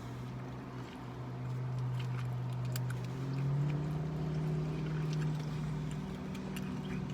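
A steady low motor hum, a little louder in the middle, with scattered faint clicks.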